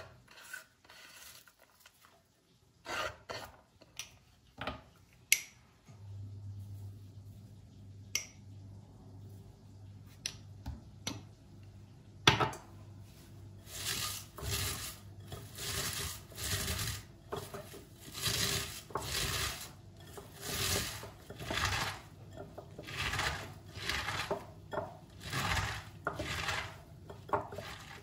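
Kitchen work with utensils and dishes: scattered clinks and knocks, then a sharp knock and a long run of rhythmic rubbing, scraping strokes, about one a second, over a steady low hum that starts about six seconds in.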